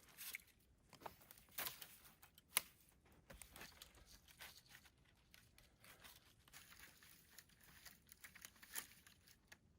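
Faint rustling and crackling of fir boughs being handled and laid down, with a few sharper snaps about one and a half and two and a half seconds in.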